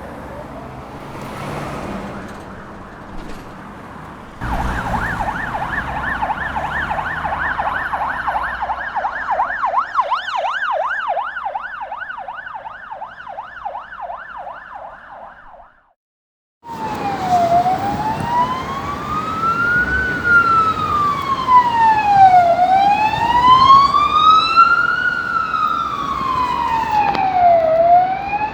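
Police sirens, two recordings back to back. First a fast yelp of rapid up-and-down sweeps, about three a second, that stops suddenly. After a brief gap comes a louder, slow wail that rises and falls about every five seconds.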